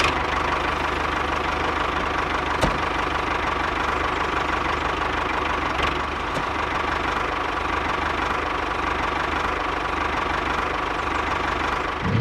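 Small engine of a mini DIY tractor running steadily at an even speed, with a rapid regular pulse.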